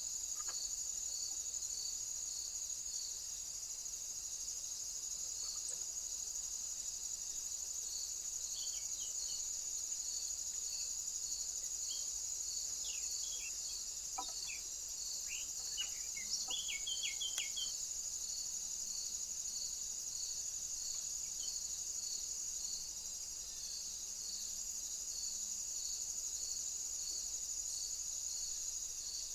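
Insects, crickets, trilling steadily and high-pitched, with a regular chirp repeating about every two-thirds of a second. A few short bird chirps come through around the middle.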